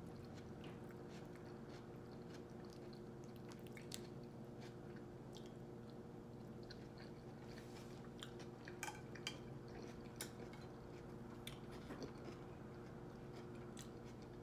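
Close-miked chewing of a mouthful of baked potato: soft, wet mouth clicks and smacks scattered through, thickest a little past the middle, over a steady low hum.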